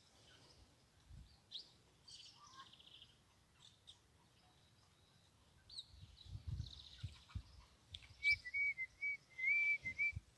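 Small birds chirping and calling, faint: short high chirps and buzzy trills, then near the end a run of about six clear whistled notes. A few soft low thumps come about six seconds in.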